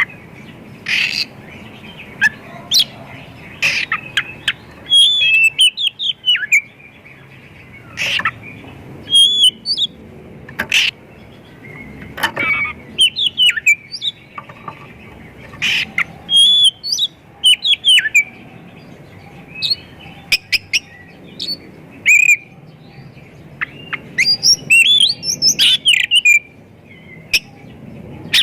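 Oriental magpie-robin singing a fast, varied song of sharp chips, clicks and curling whistled notes, packed with mimicked calls of other birds.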